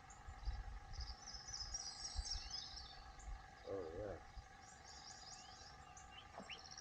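Songbirds chirping and trilling in high, rapid phrases, over a steady faint hum and some low rumbling.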